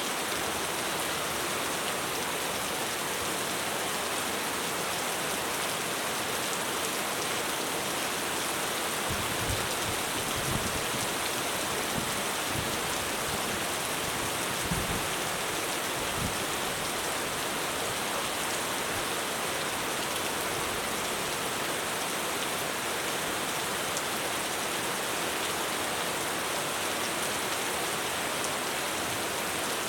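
Heavy rain falling steadily on a roof, an even hiss with no let-up. From about nine seconds in, a low rumble of thunder comes and goes for several seconds under the rain.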